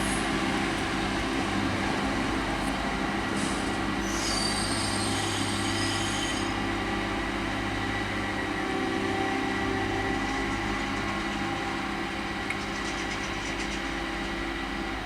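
A train running by with a steady mechanical drone. A high-pitched wheel squeal sounds for a couple of seconds about four seconds in.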